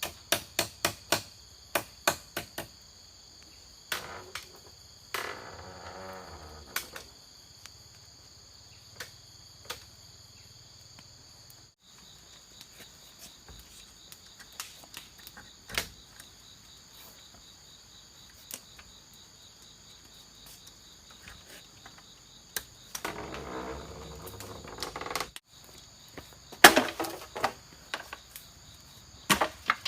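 A steady insect chorus with sharp knocks over it: a quick run of about ten near the start, then scattered single knocks. There are two short spells of rough, noisy sound about five seconds in and again near the end.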